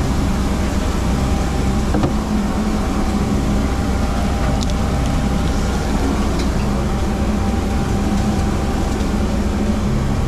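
Steady, loud low machine drone with an even hum, unchanging throughout.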